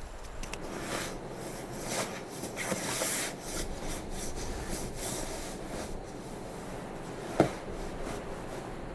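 Rustling and rubbing of fabric and gear being handled, with scattered small clicks and one sharp knock about seven and a half seconds in.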